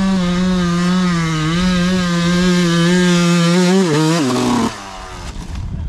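Two-stroke dirt bike engine held at high revs climbing a hill in second gear, the pitch wavering slightly; about four seconds in the revs drop and the engine cuts out as the climb fails.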